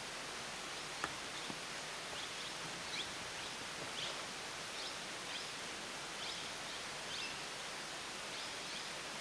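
Faint, short, high-pitched bird chirps repeating every half second to a second over a steady outdoor hiss, with one small sharp click about a second in.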